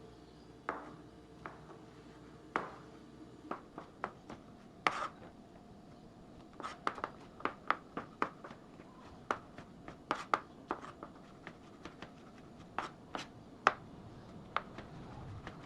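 Kitchen knife slicing shiitake mushrooms into julienne on a cutting board: irregular sharp taps of the blade meeting the board. The taps are a second or so apart at first, then come faster, about two to three a second, for most of the rest.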